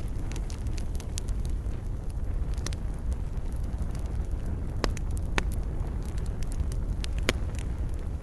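Wood campfire burning: a steady low rumble of flame with frequent small crackles, and a few sharper pops about five seconds in and again near seven seconds.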